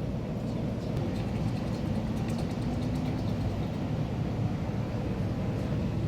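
Light-rail train running, a steady low rumble with a faint held tone partway through.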